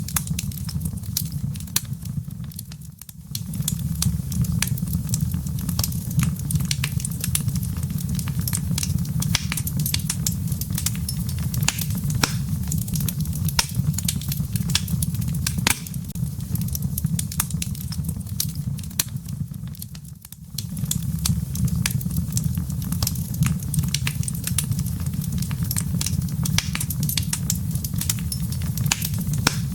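Wood logs burning in a fireplace: a steady low rumble of flame with frequent sharp crackles and pops. The sound briefly drops away twice, about three seconds in and again about twenty seconds in.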